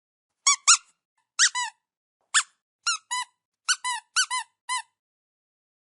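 A quick series of about eleven short, high-pitched squeaks in groups of two and three, each rising and falling in pitch.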